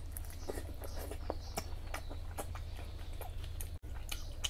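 Wet, close-up mouth sounds of a man chewing a mouthful of rice and mutton fat curry eaten by hand: irregular smacks and sticky clicks, over a steady low hum.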